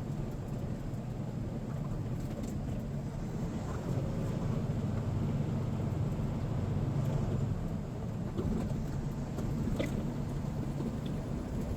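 Semi-truck's diesel engine and road noise, a steady low rumble heard inside the cab while driving.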